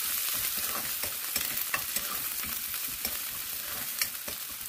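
Onions and ginger-garlic paste sizzling in hot mustard oil in a metal kadai while being stirred with a metal spatula. There is a steady sizzle, with a few sharp clicks where the spatula strikes the pan, the clearest near the start and about four seconds in.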